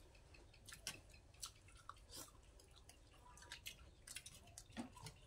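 Faint chewing and eating sounds: irregular small clicks and smacks from people eating fish curry with their fingers.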